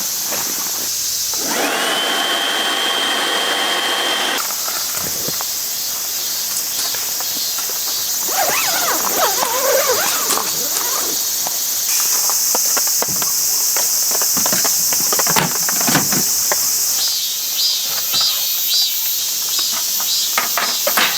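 Insects chirring steadily in the background, with evenly repeating chirps near the end, over intermittent clicks and knocks of handling. A steady whistle-like tone sounds for about two seconds early on.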